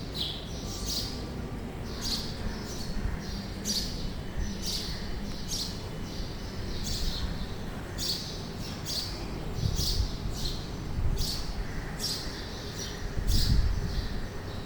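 A bird giving short, high-pitched calls over and over, about one a second, over a low rumble that swells louder twice in the second half.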